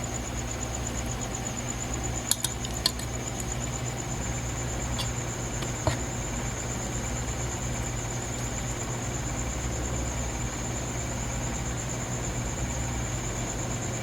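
A few light clinks of eating utensils against a bowl: two or three close together about two to three seconds in, and one more near six seconds. Under them runs a steady low hum and a constant high, finely pulsing whine.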